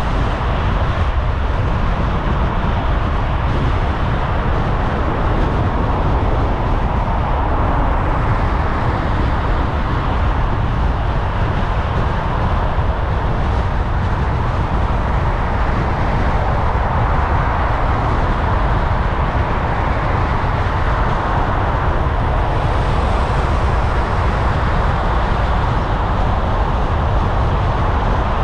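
Steady road noise of a car driving: a continuous wash of tyre and engine noise over a low rumble, with no sharp events.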